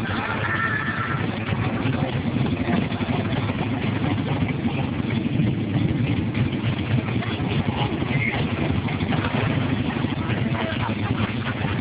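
A custom bagger motorcycle's engine idling steadily, its exhaust note even throughout.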